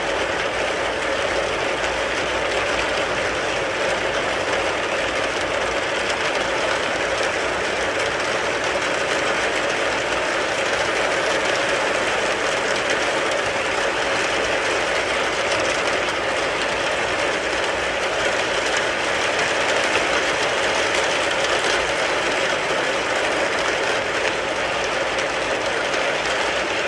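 Rain falling steadily on a car, an even dense patter with no change in strength.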